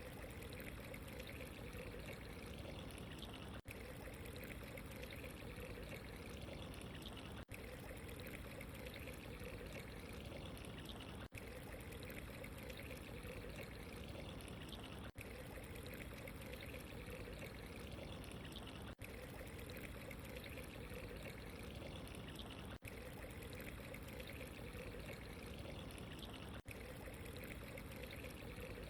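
Steady running water, trickling and pouring without a break, with a very short dip in level about every four seconds, as where a short recording is looped.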